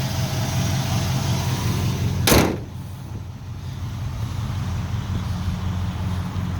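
1964 Oldsmobile Jetstar 88's V8 engine idling steadily with a low rumble. About two seconds in, a car door shuts with a single loud thump, and the sound becomes more muffled afterwards.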